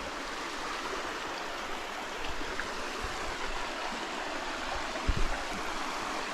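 Shallow creek water running steadily over rocks, an even rushing wash. A brief low thump about five seconds in.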